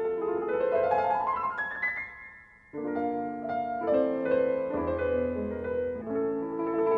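Piano music: a rising run of notes that fades out about two seconds in, then chords start again a moment later.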